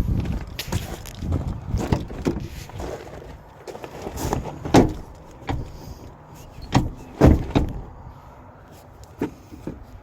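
Clicks and clunks of a pickup truck's door being handled: a handle pulled and the door worked open. The loudest knocks come about five seconds in and twice close together around seven seconds.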